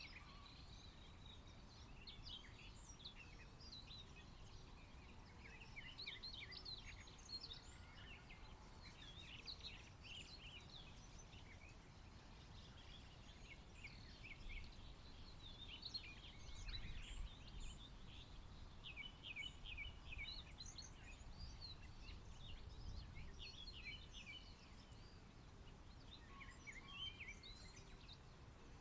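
Faint chorus of several songbirds singing and chirping, many short high notes and trills overlapping continuously, over a low rumble of background noise.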